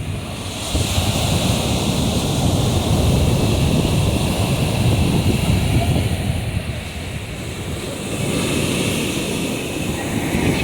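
Sea surf breaking and washing on the shore, swelling about a second in and again near the end, with wind rumbling on the microphone.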